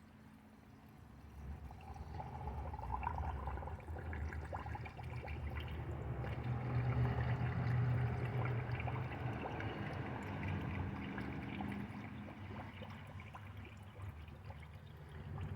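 Coolant, a mix of antifreeze and water, poured into a radiator in a steady stream, with a low gurgle as it fills, starting about a second in.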